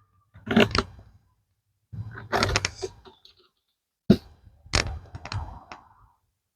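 Knocks and scrapes of wooden beehive parts being handled, in three short bursts with pauses between them.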